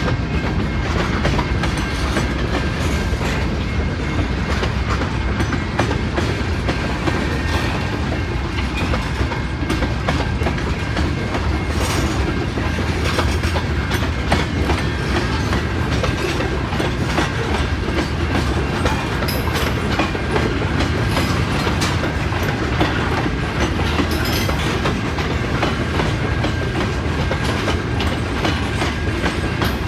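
Freight train cars rolling past at steady speed, wheels clicking over rail joints, with a faint steady high whine from the wheels.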